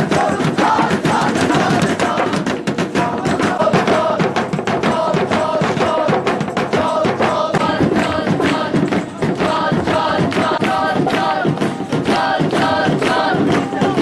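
Music: a group of voices singing a chant-like song together over fast, steady drumming.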